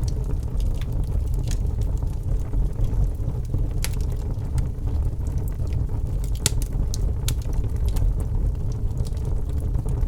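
Wood fire burning in a fireplace: a steady low rumble of flames with sharp crackles and pops at irregular moments, a few each second.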